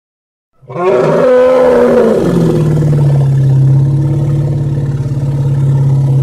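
Elephant calling: a loud call starts about half a second in, wavers up and down in pitch for a second or so, then settles into a long, steady, deep tone.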